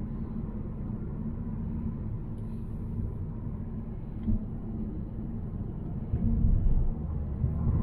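Volvo C70 driving: a steady low engine and road rumble, swelling briefly about six seconds in.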